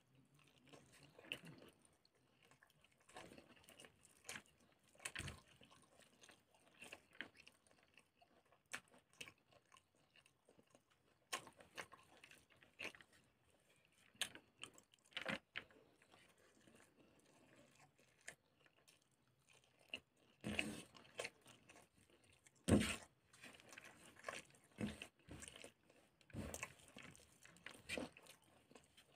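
Close-miked chewing and mouth sounds of a person eating pork intestine with rice by hand: a faint run of irregular wet clicks and smacks, with a couple of sharper ones about two-thirds of the way through.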